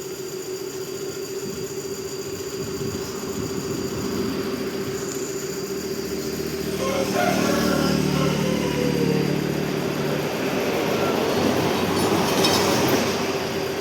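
Steady machine hum, with a motor vehicle's engine growing louder in the middle and its pitch falling as it passes by.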